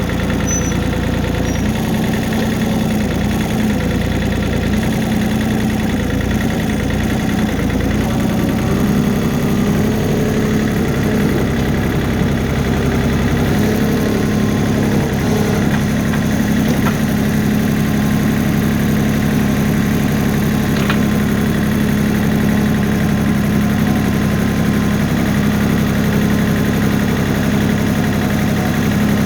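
Tractor engine running steadily, its pitch wavering slightly in the first half, then holding steady.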